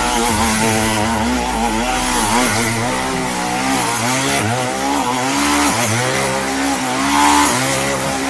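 Dirt bike engine revving up and down over and over, its pitch rising and falling every half second or so.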